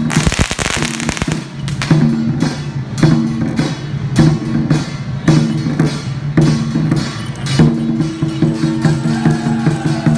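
Temple festival music: drums and cymbal-type percussion striking a regular beat under held pitched notes. A burst of firecrackers crackles over it for the first second or so.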